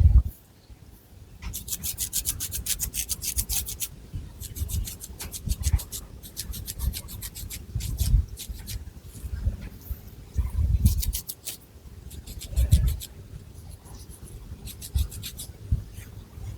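Long fingernails scratching through thick long hair and scalp, in quick rhythmic strokes of about eight a second that come in runs of one to two seconds. Soft low thumps come between the runs.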